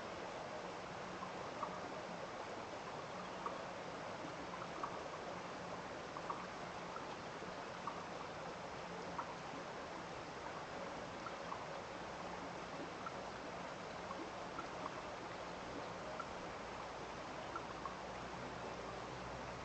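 Small stream or trickle of water running with a steady rush after rain. Short sharp ticks come through it irregularly, about one a second.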